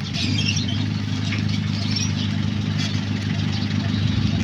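A motor vehicle's engine idling steadily, with faint high chirps over it.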